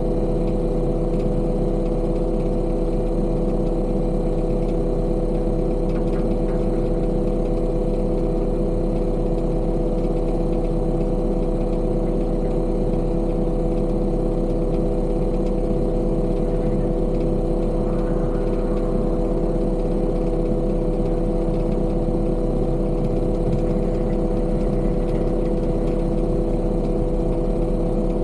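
Heavy construction machine's engine running with a steady, unchanging drone.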